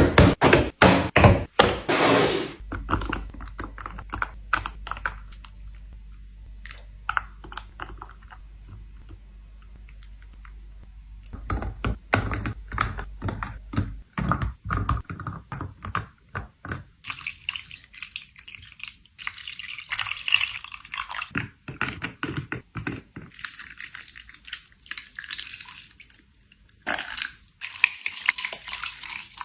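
Kitchen ASMR handling sounds: a quick run of knocks and thunks as containers are handled and set down, loudest in the first couple of seconds, then scattered lighter clicks and taps. A steady low hum runs under the middle stretch.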